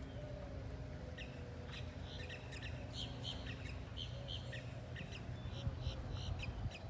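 Small birds chirping: a run of short, high chirps repeating irregularly over a steady low background hum.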